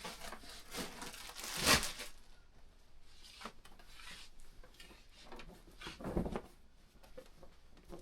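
Household objects being handled and moved in a small room: scattered rustling and rubbing, with a louder rushing scrape about two seconds in and a dull bump about six seconds in.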